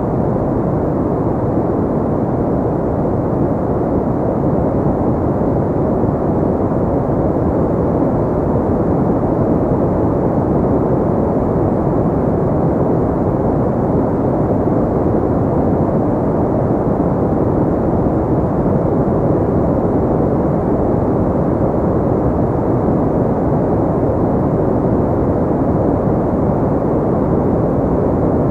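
Steady, unchanging noise, full in the low and middle range and dull above: a white-noise relaxation track filtered towards the low end.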